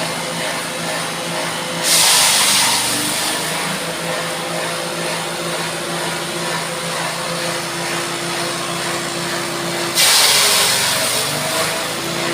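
Grass chopper machine running steadily, with two sudden loud rushes of chopping noise, about two seconds in and again near ten seconds, as material goes through the cutter. The machine's pitch sags briefly under each load.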